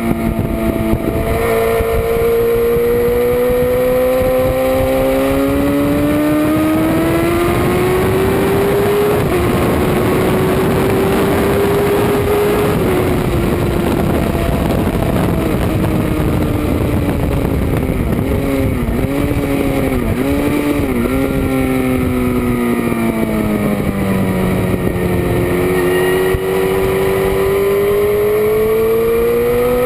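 Motorcycle engine at full race pace: it pulls hard with an upshift partway through, then winds down as it slows, blipping through about four quick downshifts, and accelerates hard again near the end. Wind rush runs under the engine throughout.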